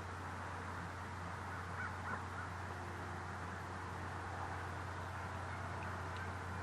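A few short bird calls about two seconds in, over a steady hiss and a low hum.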